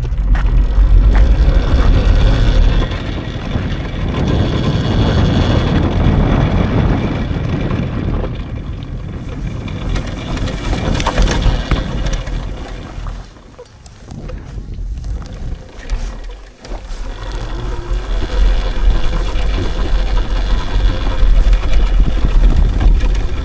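Wind buffeting the microphone over a low rumble while riding an electric dirt bike. It eases off about halfway through, then builds again.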